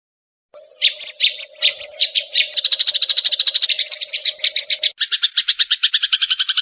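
Recorded songbird call: after a brief silence, separate high chips speed up into a fast, even trill, which about five seconds in switches to a lower, buzzier trill. A faint steady hum sits under the first part.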